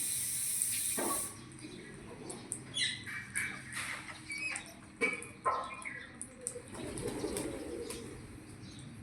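A parrot's wings flapping, with short chirps and squeaks and a few sharp clicks. A steady high hiss stops about a second in.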